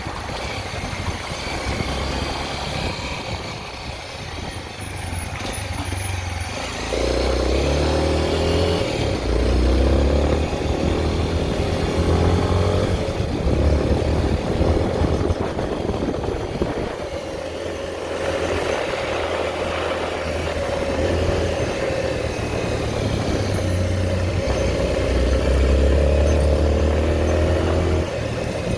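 Honda XR 250 Tornado's single-cylinder four-stroke engine running with a steady rushing noise. From about seven seconds in the engine gets louder, its pitch rising and falling again and again.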